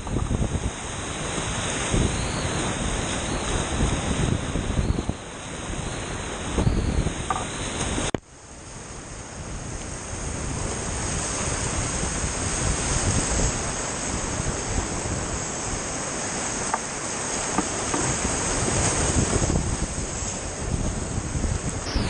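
Rushing whitewater of a creek rapid, a steady roar of water mixed with wind buffeting the microphone. The sound drops out suddenly about eight seconds in and swells back up over the next few seconds.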